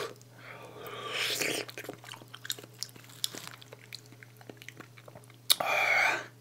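Close-miked biting and wet chewing of soft, ripe mango flesh pulled off the seed, with many small mouth clicks and smacks. There is a louder bite about a second in and another louder mouth sound near the end.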